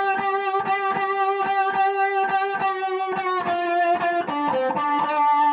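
Electric guitar playing a blues lick: one high note picked over and over, about three times a second, then stepping down to lower notes with short bends in the last couple of seconds.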